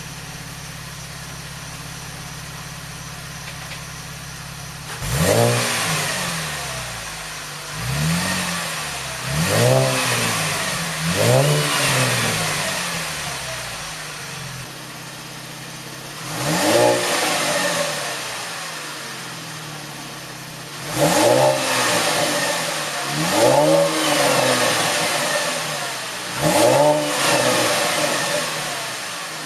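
2013 Camaro's 3.6-litre V6 running through a newly fitted GM axle-back performance exhaust: it idles with a low rumble, then is revved in about nine short blips, each rising and falling in pitch, four close together, one alone, then four more.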